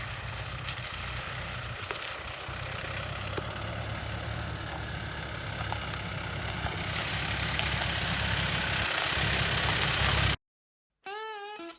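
Car engine running, heard from inside the car, a steady low hum with noise over it that slowly grows louder, cut off abruptly about two seconds before the end.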